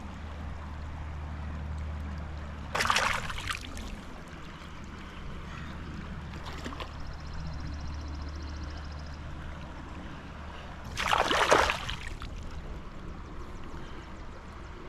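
Low rumble of distant thunder under the steady rush of a river, with two brief, loud scraping noises, about three seconds in and again about eleven seconds in.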